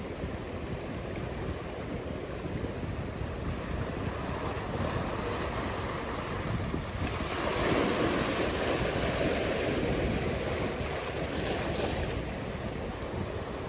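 Ocean surf: a steady wash of breaking waves that swells louder about seven seconds in as a wave breaks and rushes in, then eases off, with wind buffeting the microphone.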